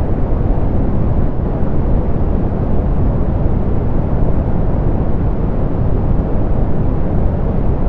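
Soft pink noise: a steady, unchanging hiss, strongest in the bass and falling away toward the treble, with almost no high-pitched hiss.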